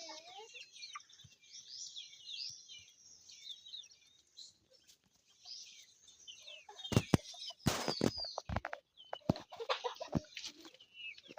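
Chickens and chicks calling, with many short high chirping calls. A run of sharp knocks and clatters starts about seven seconds in.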